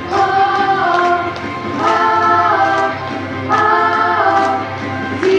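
Choir singing a slow song in several voices, holding long notes that step from chord to chord, over a steady low accompaniment.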